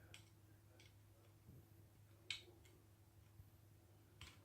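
Faint, sparse small metal clicks of a screwdriver working at a screw in a Ruger Old Army revolver's frame, the sharpest about two seconds in, over a low steady hum.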